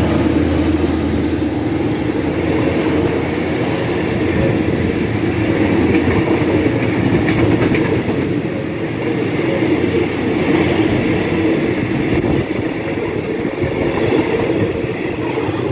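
Thai Railways passenger train 257 running past on the track, a loud, steady noise of its wheels on the rails.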